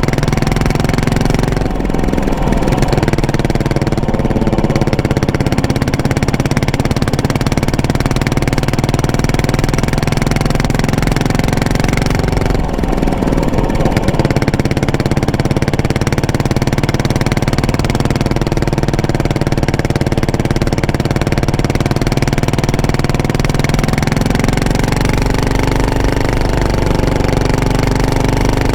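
Yamaha SR400's air-cooled single-cylinder four-stroke engine running through its muffler as the motorcycle is ridden along. The note breaks briefly about two seconds in and again about thirteen seconds in, and rises in pitch near the end.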